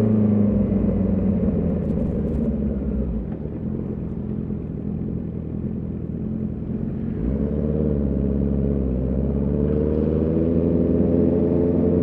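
Honda CB650R's inline-four engine and exhaust under way. The note falls off after a rev, runs lower and rougher for a few seconds, then picks up about seven seconds in and climbs steadily toward the end as the bike accelerates again.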